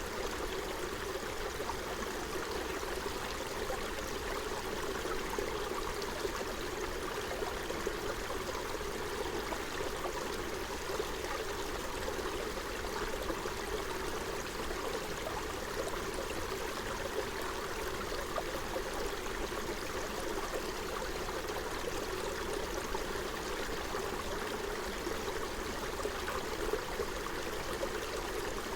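Forest stream flowing over stones, a steady babble and trickle of running water.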